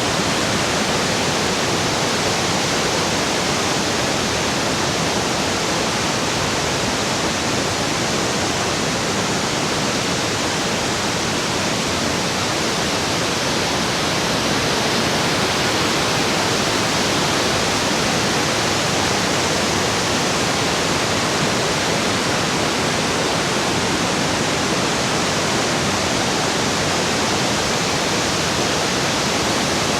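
A large waterfall's falling water: a loud, steady, unbroken rush.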